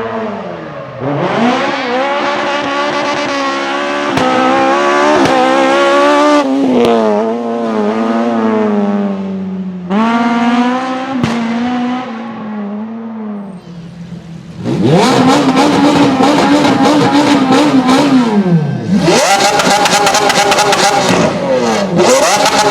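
Fiat 131 Racing's engine being driven hard, revs climbing and falling through gear changes. About two-thirds of the way in it grows louder, with high revs held, a drop, then another climb, laced with sharp exhaust crackles.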